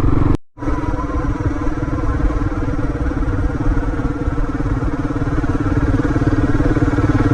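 Suzuki DR650's single-cylinder engine running at a steady pace while riding, with road and wind rumble. The sound drops out completely for a moment about half a second in.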